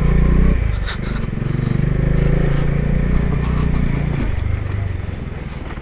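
A motorbike engine running under load, its pitch wavering and its note falling away about four seconds in, with a brief knock about a second in.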